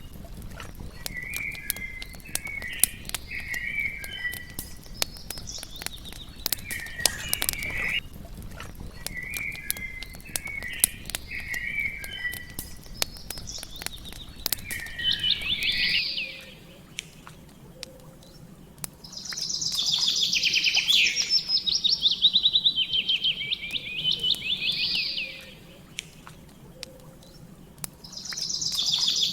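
Songbirds singing: short warbling phrases repeat every few seconds, then give way about halfway through to louder, longer rapid trills that come twice. Scattered sharp pops and crackles of a wood campfire sound under the song.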